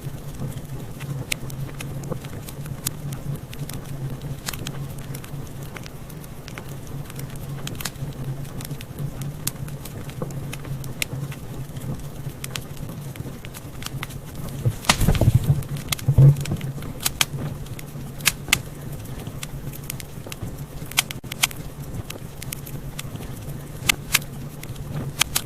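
Wood fire crackling, with frequent sharp pops and snaps over a low, steady rumble; a burst of louder pops comes about fifteen seconds in.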